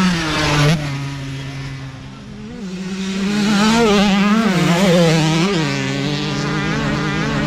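Youth dirt bike engines revving, the pitch rising and falling with the throttle. The sound dips about two seconds in, then swells to its loudest around four to five seconds in as a bike comes close.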